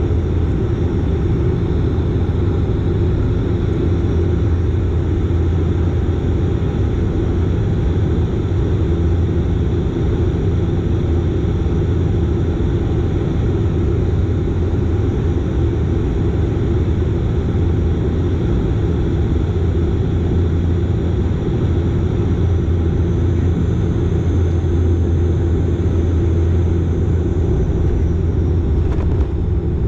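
Dash 8 Q400's Pratt & Whitney PW150A turboprop engine and propeller running with a steady, loud drone and a strong low hum underneath.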